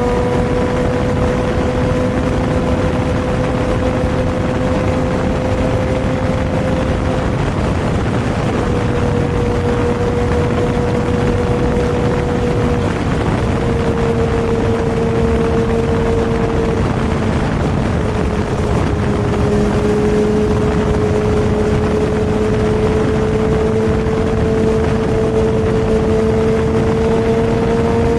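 Superbike engine running steadily at cruising speed under a constant rush of wind and road noise. Its pitch dips slightly midway and climbs a little near the end.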